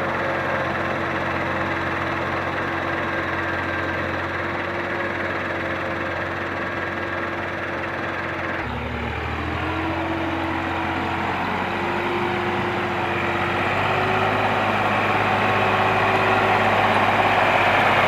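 Tractor diesel engine running steadily, with an abrupt change in its tone about eight and a half seconds in. It grows gradually louder toward the end.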